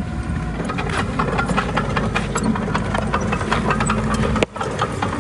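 Komatsu D20A crawler bulldozer's diesel engine running under a rapid metallic clatter. The sound drops out abruptly for a moment about four and a half seconds in.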